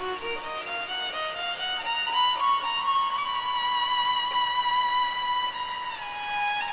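Violin playing the instrumental opening melody of a pop song: a run of short rising notes, then one long high note held for about four seconds before it steps down near the end.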